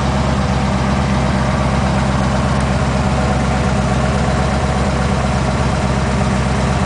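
1968 Corvette's 1972 LT-1 350 small-block V8 idling steadily.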